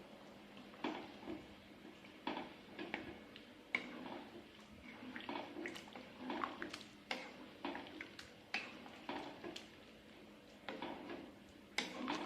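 Eating sounds: irregular clinks of cutlery against a plate, with softer wet chewing and mouth sounds between them.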